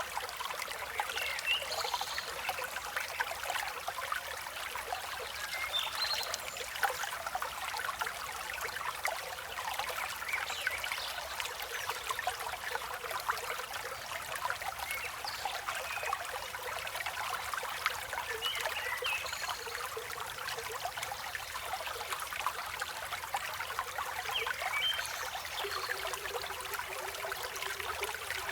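A river flowing in a steady rushing trickle, with brief high bird chirps scattered through it.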